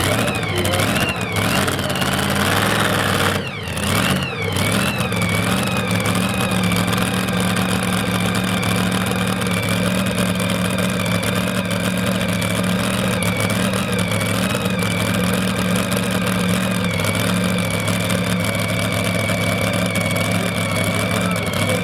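Modified two-wheel-drive pulling truck engine running hard at high revs, with a high whine over the engine note. Its pitch sweeps and drops twice in the first few seconds, then holds steady with a slight wobble.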